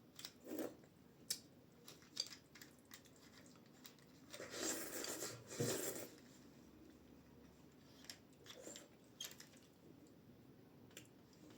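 Faint mouth sounds of someone eating dumplings: scattered small clicks and smacks, with a longer stretch of chewing about four to six seconds in.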